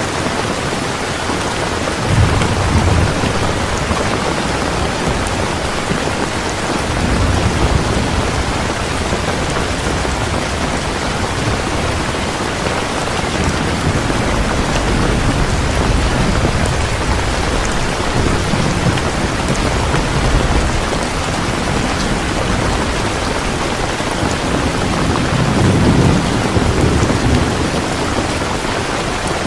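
Heavy rain falling steadily, with rolls of thunder rumbling low at intervals: the first about two seconds in, a longer one around a quarter of the way through, and a strong one near the end.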